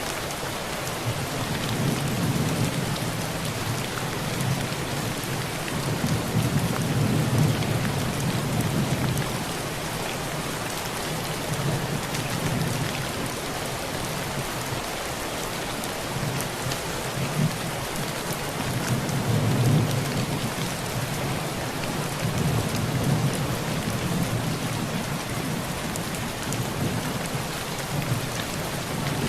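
Heavy rain pouring steadily on a tin roof, with scattered sharp ticks of drops striking the metal. Low thunder rumbles under it, swelling twice: about a quarter of the way through and again about two-thirds through.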